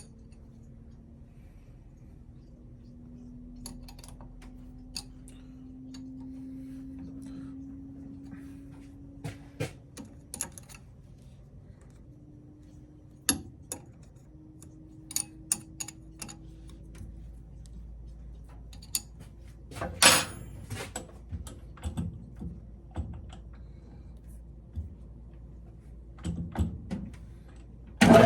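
Scattered metallic clinks and knocks of tools and parts being handled at a metal lathe, with one sharper knock about twenty seconds in, over a faint low hum. The lathe motor starts up at the very end.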